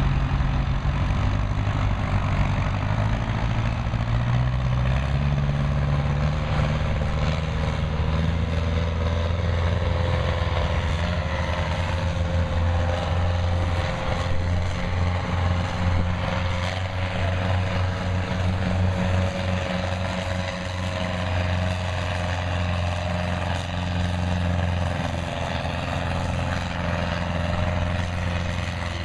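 Farm stock pulling tractor's engine running hard under load, its pitch climbing over the first several seconds and then holding steady.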